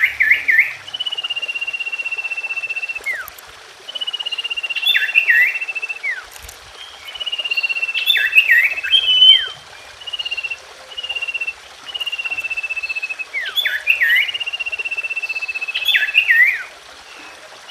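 Common iora (cipoh) song: a long, evenly trilled note followed by a quick run of sharp chirps and falling whistles, the phrase repeating about every four seconds.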